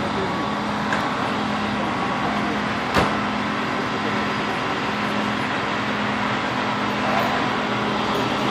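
Steady road-vehicle noise with a constant low hum, and a single sharp pop about three seconds in.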